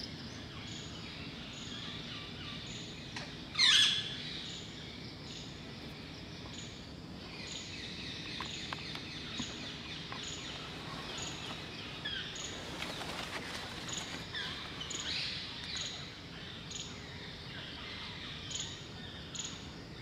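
Wild birds calling and chirping, with one loud, sharp call about four seconds in and a scatter of smaller chirps later on. A faint high ticking repeats about twice a second underneath.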